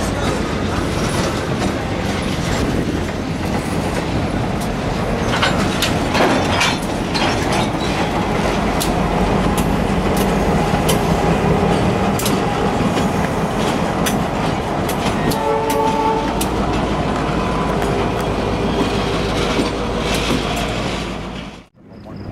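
Train rolling past, its wheels clicking over rail joints amid a steady rumble, with a brief tone about two-thirds of the way through. It cuts off suddenly near the end.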